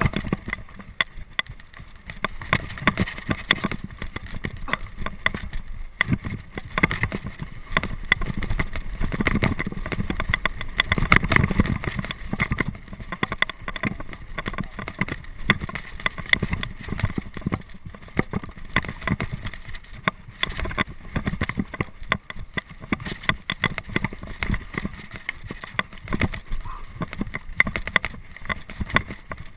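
Mountain bike clattering over rough downhill terrain: a dense, continuous rattle of knocks and impacts from the frame, chain and wheels.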